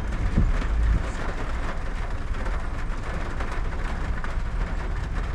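Car driving on the road, heard from inside the cabin: a steady low rumble of engine and tyres, with a couple of low thumps in the first second.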